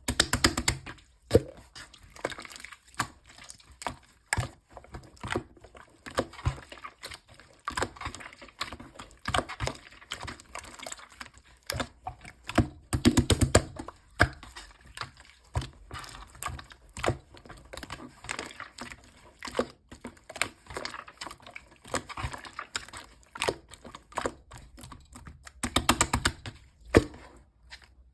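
Sticky slime being pressed, poked and stretched by hand: a steady run of wet clicks and small air-pocket pops, with thicker crackling clusters at the start, about halfway through and near the end.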